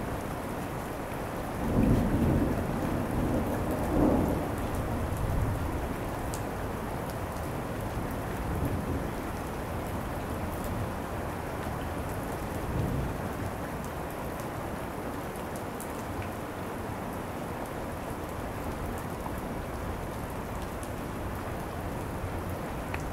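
Steady rain falling, with a peal of thunder rumbling in about two seconds in, swelling again a couple of seconds later and rolling away, then fainter distant rumbles.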